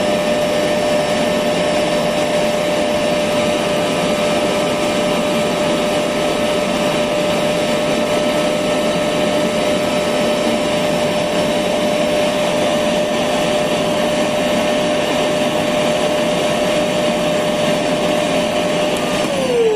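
Electric vacuum cleaner running steadily: a rush of air with a constant whine over it. Near the end the whine starts to fall in pitch as the motor winds down.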